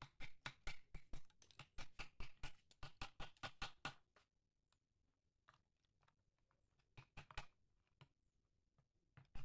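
Hard coconut shell pieces clicking and cracking as they are broken up, in a fast run of about five sharp cracks a second for four seconds, then a few scattered ones.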